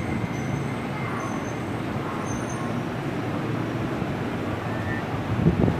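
MTR West Rail Line SP1900 eight-car electric train pulling out of the station, a steady rumble and hiss of wheels and motors as the cars pass. Wind buffets the microphone near the end as the last car clears.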